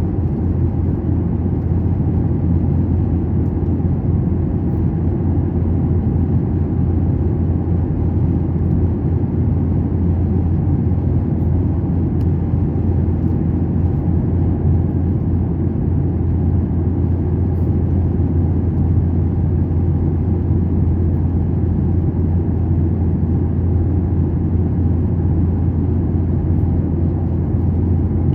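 Steady low drone inside an airliner's cabin: engine and airflow noise, even and unbroken throughout.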